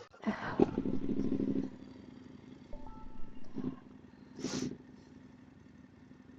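Motorcycle engine running: louder for about a second and a half at the start, then settling to a steady idle. A brief rush of noise comes about four and a half seconds in.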